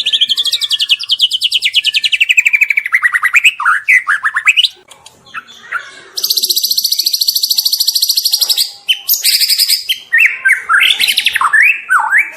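White-rumped shama singing in the rapid stuttering 'trotol' style: a fast trill that slides down in pitch over the first few seconds, then after a short pause a long rapid high trill followed by a run of short, varied whistled phrases.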